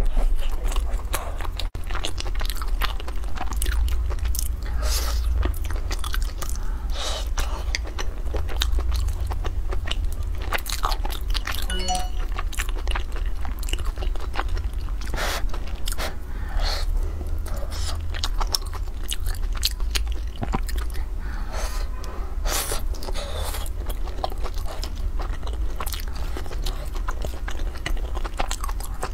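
Close-miked chewing and biting of pan-fried buns: many small irregular mouth clicks and crunches, over a steady low hum.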